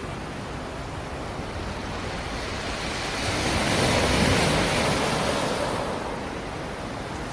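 Black Sea surf: a wave builds, breaks about halfway through and washes back, over a steady rush of water.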